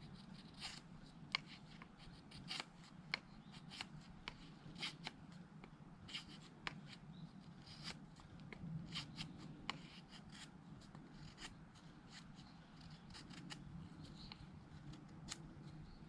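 A knife blade shaving thin curls off a wooden stick to make a feather stick: quiet, irregular short scraping strokes, several a second.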